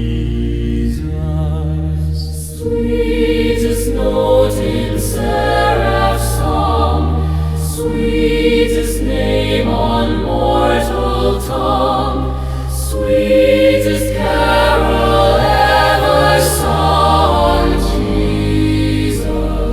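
Choir singing a slow hymn with sustained low accompaniment, the words not made out.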